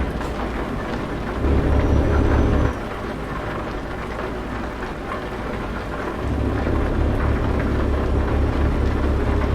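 Steady rain mixed with the low rumble of a truck engine. The rumble grows louder for about a second, about one and a half seconds in, and again from about six seconds in.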